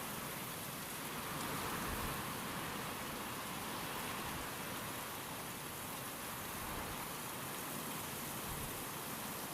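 Steady rain with wind, an even hiss that swells slightly about two seconds in.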